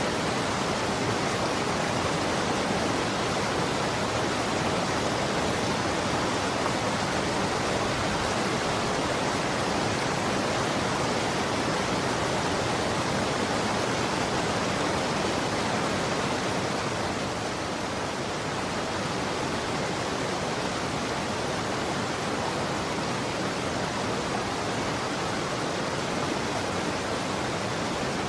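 Running water flowing steadily, a continuous even rushing that dips slightly a little past halfway through.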